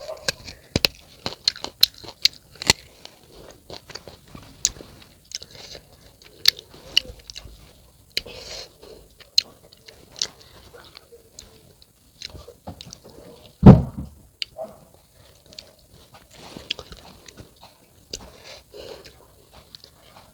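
Close-up crunchy biting and chewing of a firm unripe peach, many sharp crisp clicks at an irregular pace. One loud thump about two-thirds of the way through.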